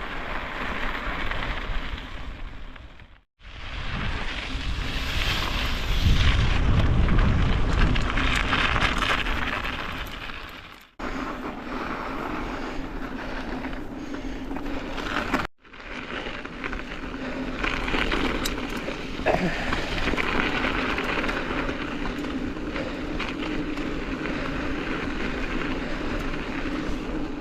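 Strong wind buffeting a camera microphone on a moving mountain bike, mixed with tyre rumble, heaviest about a third of the way in. The noise drops out abruptly three times.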